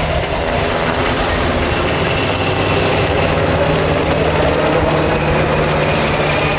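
UH-60A Black Hawk helicopter running up close: loud, steady rotor and twin-turboshaft engine noise, with a faint high whine over it from about two seconds in.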